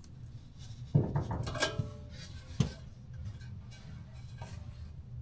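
Metal tools clanking in a garage. A sharp knock about a second in rings briefly, then two more clinks follow, over a low steady hum.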